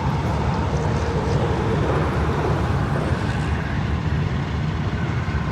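Diesel switcher locomotive running close by: a loud, steady low rumble with a hiss over it.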